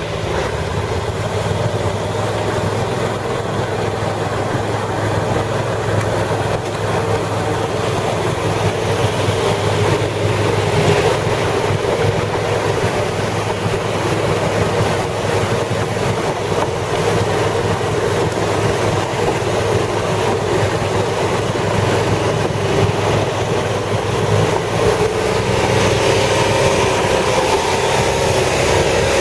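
Amphibious six-wheel ATV engine running steadily under way, a constant low drone that shifts slightly near the end.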